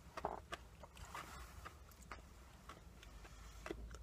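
Faint clicks and crunches of a small candy-coated chocolate being chewed in the mouth, a few scattered soft clicks over a low steady rumble.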